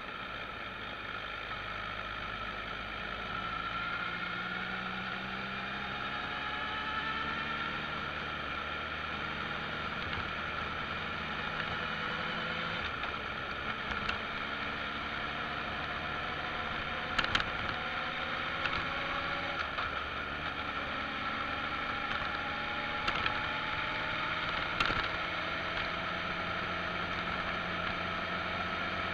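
Motorcycle engine under way, its pitch rising and dropping back again and again as it accelerates through the gears, with wind noise across the microphone and a few short sharp knocks.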